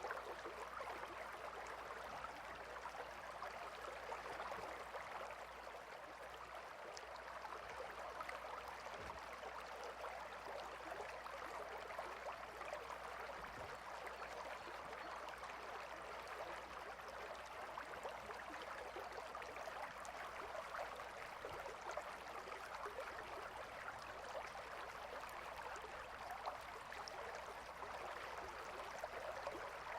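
Gentle river flowing, a faint, even rush of water that holds steady throughout.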